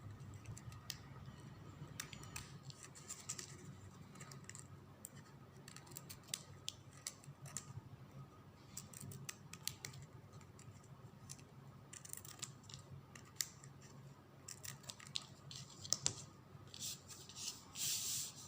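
Scissors snipping off the excess ribbon ends, a series of short sharp clicks and cuts with light ribbon handling between them, getting busier near the end.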